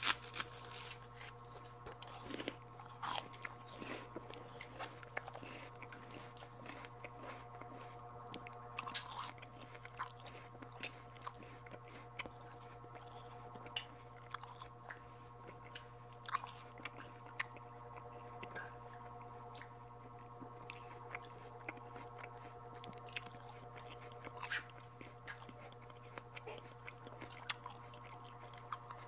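Close-up mouth sounds of a person biting and chewing santol fruit pulp: irregular small clicks and crunches, over a steady low hum.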